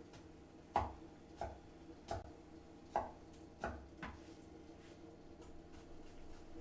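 Knife chopping on a cutting board: about six separate, unevenly spaced knocks during the first four seconds or so.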